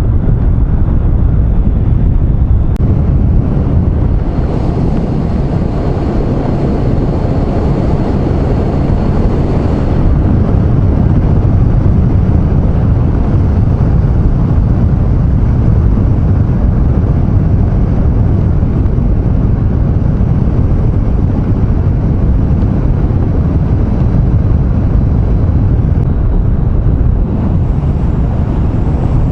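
Riding a Triumph Street Triple motorcycle: steady, loud wind and road rush on the helmet microphone, with the engine running underneath.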